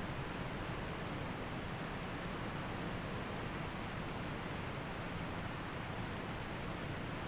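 Waterfall: water rushing steadily without a break.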